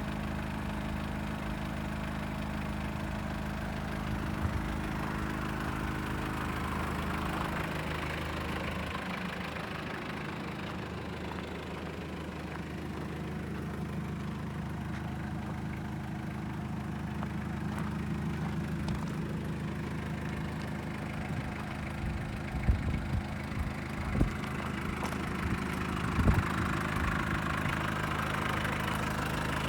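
Mitsubishi Canter's 4M40 four-cylinder diesel engine idling steadily, with a few sharp knocks near the end.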